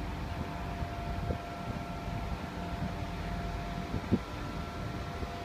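Steady low engine hum with a faint held whine over it, and a couple of light knocks, about a second in and again about four seconds in.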